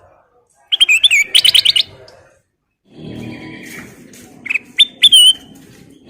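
Kutilang emas bulbul singing: a rapid run of loud chirping notes about a second in, then after a short pause a few clear whistled notes near the end over a steady low background hum.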